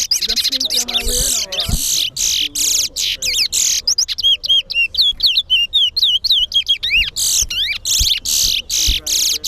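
Towa towa (large-billed seed finch) singing in a fast, unbroken run of high whistled notes, rising and falling slurs and trills, with only brief breaks between phrases.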